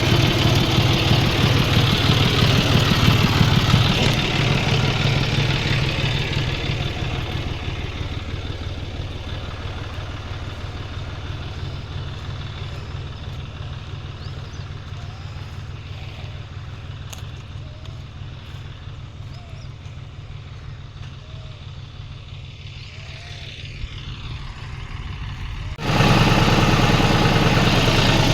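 Farm tractor's diesel engine running steadily with a deep, even hum. It fades slowly over about twenty seconds as the tractor moves away, then is suddenly loud again near the end.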